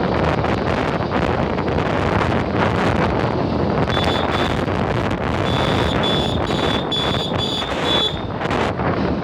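Wind buffeting the microphone during a bike ride, over a steady rumble of the moving ride. From about four seconds in, a run of short high-pitched beeps sounds, two or three a second, stopping after about eight seconds.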